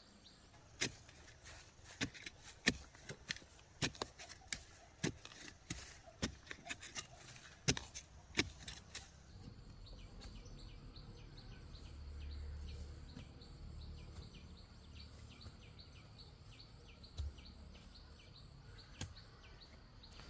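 A run of sharp, irregular knocks, then a bird or insect chirping steadily, about two to three short high chirps a second, over a low rumble.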